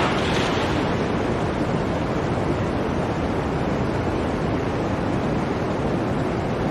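Blizzard wind blowing steadily, a gust easing off just after the start.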